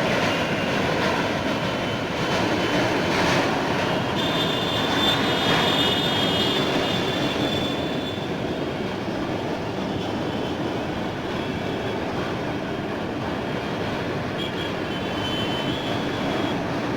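Steady road-traffic noise from vehicles, with a faint high squeal a few seconds in and again near the end.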